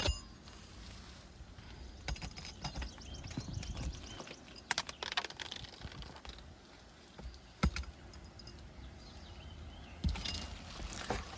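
Hand work on an asphalt shingle roof: scattered clicks, scrapes and small metallic rattles, with a quick run of ticks about two seconds in and sharper knocks about five and eight seconds in and near the end.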